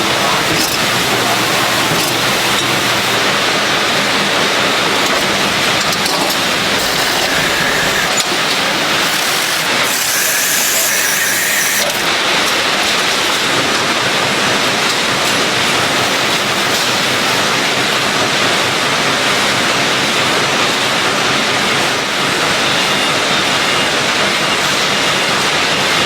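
Steady, loud noise of production machinery in a cabin air filter factory, an even hiss-like din. About ten seconds in, a sharper hiss joins for about two seconds.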